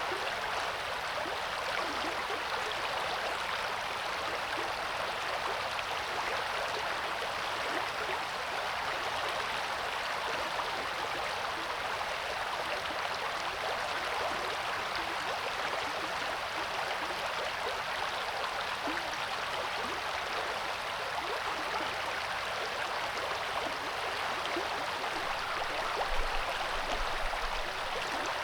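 Coeur d'Alene River flowing, a steady rush of running water, with a brief low rumble near the end.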